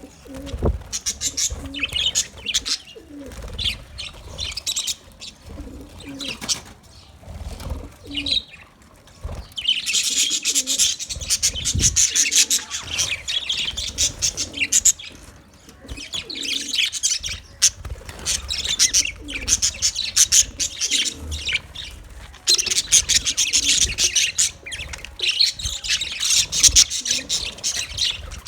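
Budgerigars chirping and chattering, in bouts that come and go, loudest in stretches near the middle and toward the end.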